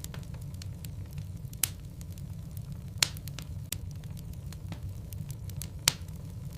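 Burning logs in a fireplace crackling, with a steady low rumble of the flames and frequent small ticks. Three sharp pops stand out, about one and a half, three and six seconds in.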